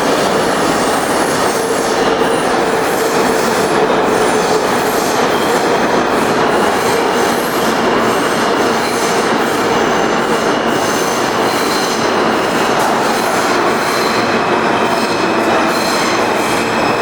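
R160A subway train running along the track with a steady loud rumble, high wheel squeals coming and going over it.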